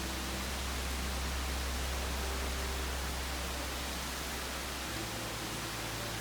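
Steady hiss with a low hum underneath that shifts to a slightly higher pitch about five seconds in.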